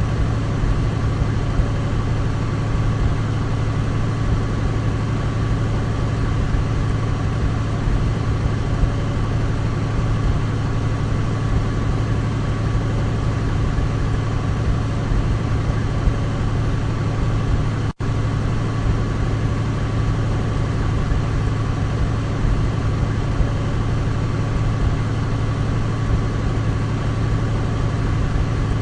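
Douglas DC-3's twin radial piston engines running in a steady, even drone with a deep low hum and a faint steady whine above it. The sound drops out for an instant about eighteen seconds in.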